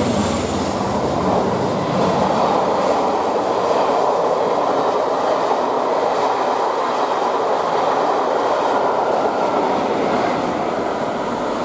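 Coaches of a locomotive-hauled West Coast Railways charter train rolling past at speed: a loud, steady rush of wheels on rails with some clickety-clack over the rail joints.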